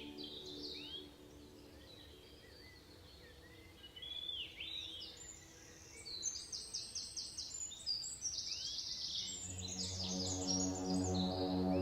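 Wild birds calling: short, high, curved chirps, with a quick run of repeated notes in the middle. Soft ambient music fades out about a second in and comes back near the end.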